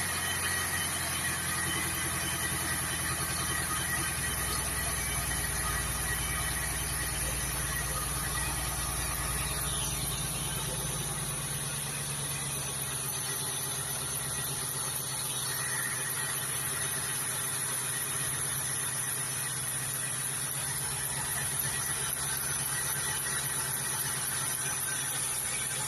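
MG ZT 260's 4.6-litre Ford V8 idling just after starting, with a high-pitched squeal over the engine note. About eleven seconds in, the deep low part of the idle drops away and the engine runs on more evenly.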